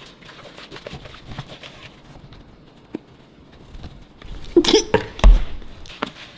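Faint rustling and handling noise, then about four and a half seconds in a brief, loud vocal outburst with a thump.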